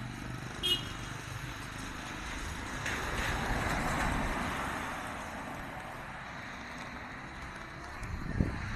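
A car passing on a wet street: its tyre hiss swells a few seconds in and fades away, over a steady urban background.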